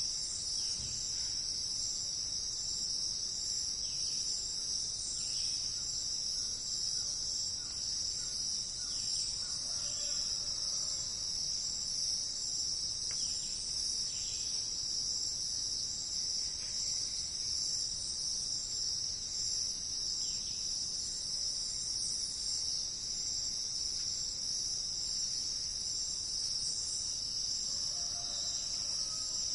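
A steady, high-pitched chorus of insects trilling without a break, with a few faint, short bird calls in the distance now and then.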